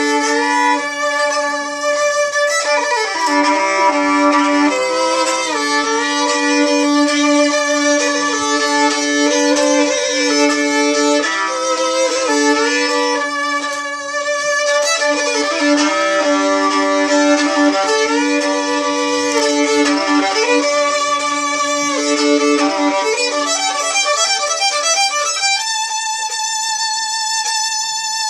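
Solo fiddle playing a slow instrumental opening, its melody moving over a steady drone string, settling into one long held note about 26 seconds in.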